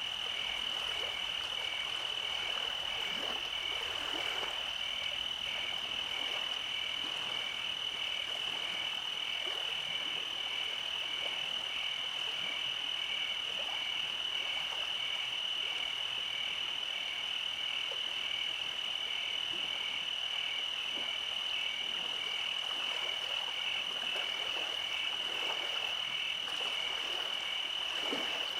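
Night chorus of frogs and insects: a steady high trill with a pulsed call repeating a little over once a second.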